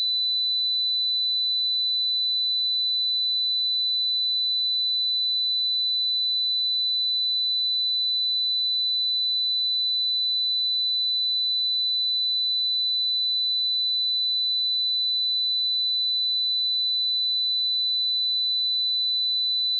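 A pure 3993 Hz sine-wave test tone, one steady high-pitched tone held at a constant level.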